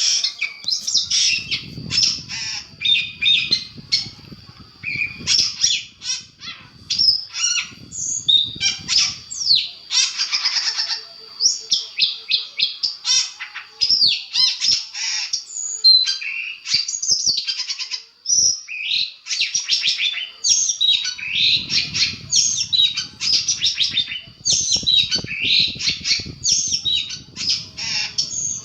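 Long-tailed shrike (cendet) singing a continuous, rapid, varied song of chirps, trills and harsh squawks, played as a masteran (tutor song) meant to set other shrikes answering and agitated.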